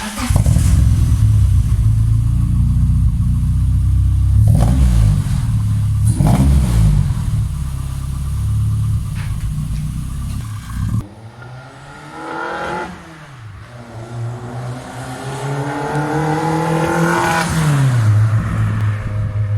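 Car engine, the freshly rebuilt Toyota 4A-GE four-cylinder of a 1988 Corolla, running with its cam timing just reset, pulling away down the road. A steady low drone for the first half, then the revs climb and fall about a second later, and climb again over a few seconds before dropping near the end.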